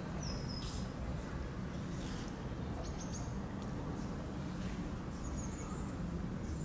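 A few short, high bird chirps spaced a couple of seconds apart, over a steady low background rumble.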